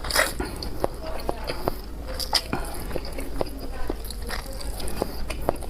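Close-miked eating: a person chewing and biting food with wet mouth clicks, irregular and a few per second.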